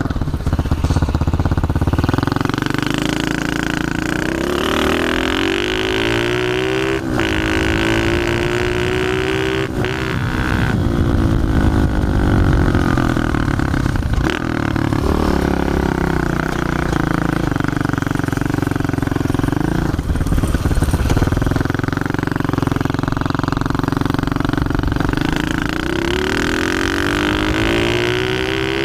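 Pit bike's single-cylinder engine revving hard while ridden, its pitch climbing and dropping several times as it accelerates and eases off.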